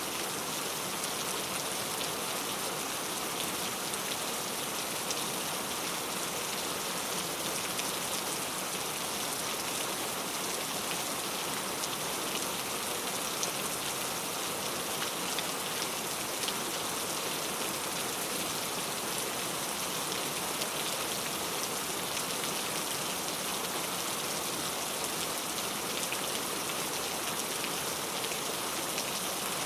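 Steady rain falling on a surface, an even hiss with scattered drop ticks and no change in intensity.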